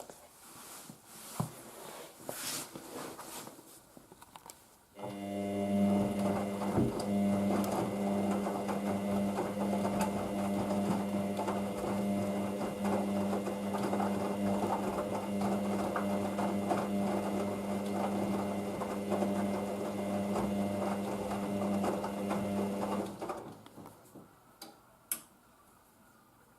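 Hoover DYN9144D3X washing machine running with a steady mechanical hum and rattle. It starts abruptly about five seconds in and stops about eighteen seconds later. A few faint clicks come before it and a couple of sharp clicks after.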